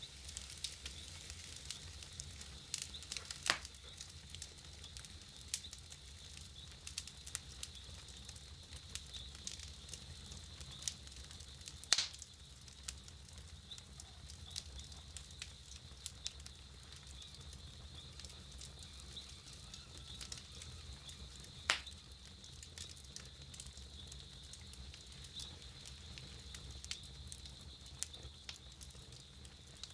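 Wood campfire crackling, with a steady run of small ticks and three louder pops spread through it.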